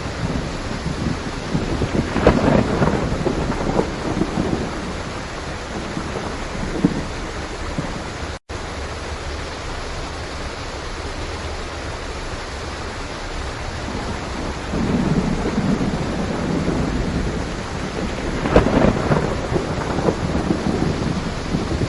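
Steady heavy rain with thunder rolling twice: one rumble with sharp cracks about two seconds in and a longer one from about fifteen seconds. The sound cuts out for an instant near the middle.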